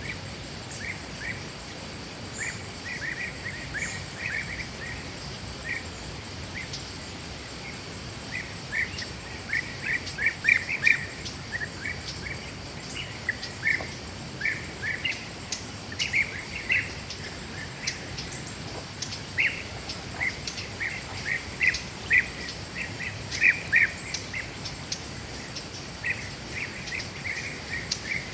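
Forest birds calling in quick clusters of short chirps, over a faint steady high insect whine.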